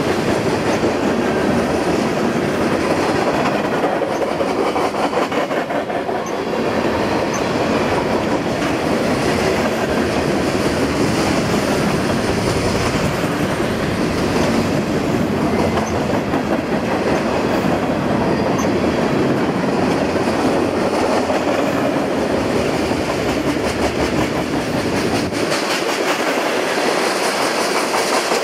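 Freight cars of a mixed train (tank cars, gondolas, flatcars) rolling past on steel wheels: a steady, loud rumble of wheels on rail with a quick run of repeated wheel clicks. The deep low rumble drops away near the end.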